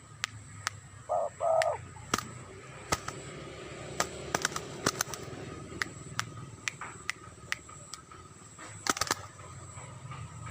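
Spotted dove giving two short low coos about a second in, with scattered sharp clicks before and after.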